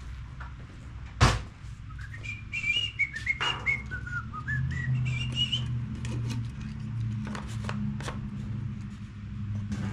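A man whistling a short wandering tune for a few seconds, with a sharp knock about a second before and light clicks of tools and parts being handled on a workbench, over a low steady hum.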